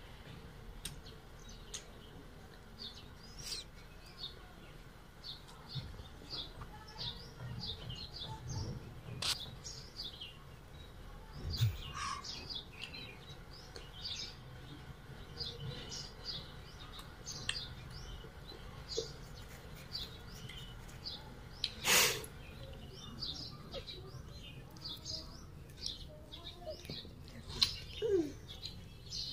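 Small birds chirping over and over in short, high calls, with a few sharp clicks, the loudest about two-thirds of the way through.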